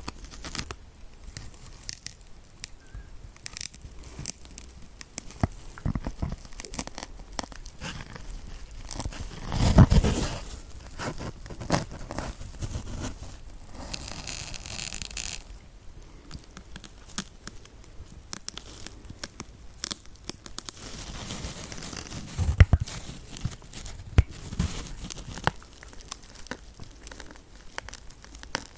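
Needles being pushed into a kitchen dish sponge close to the microphone, giving irregular crackling, scratchy tearing sounds and scattered sharp clicks. A louder burst comes about ten seconds in, and a brighter rustle a few seconds later.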